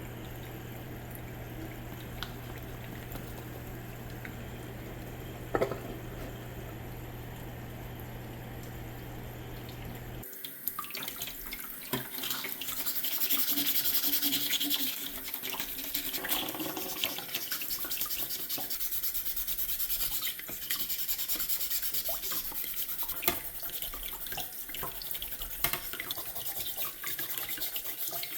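A steady low hum for about ten seconds, then tap water running into a sink with rubbing and scrubbing sounds.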